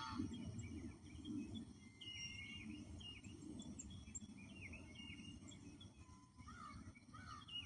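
Songbirds chirping and calling faintly, many short notes overlapping, over a steady low background rumble. Lower swooping calls join near the end.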